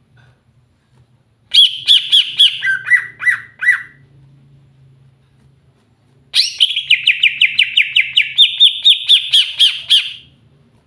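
Cucak hijau (greater green leafbird) singing: two loud bursts of quick repeated chirping notes, the first about two seconds long, the second a longer run of about four notes a second lasting some four seconds.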